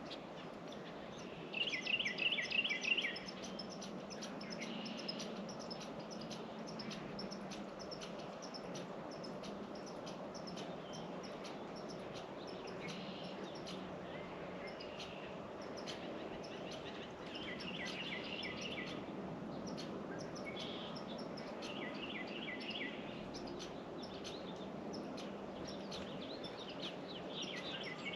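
Songbirds at a feeder: a short trilled phrase of evenly spaced notes, sung four times with long gaps between, over many faint short ticks and a steady low background hum.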